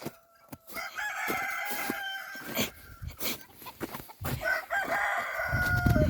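Rooster crowing twice, each crow a long drawn-out call that dips in pitch at its end.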